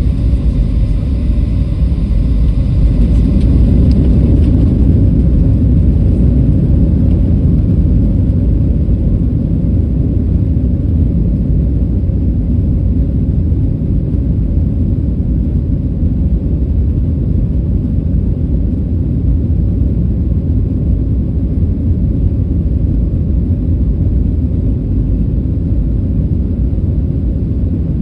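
Steady low rumble of a jet airliner heard from inside the passenger cabin, a little louder about four seconds in and easing slightly later on.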